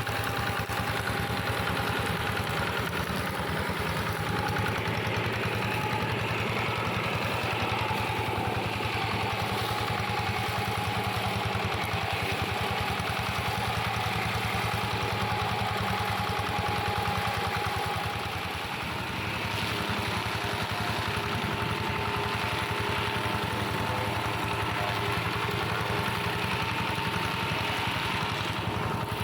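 Engine of a plough tractor converted to a grass and brush mower, running steadily under load, with a thin whine above the engine note. The loudness dips briefly about two-thirds of the way through, then recovers.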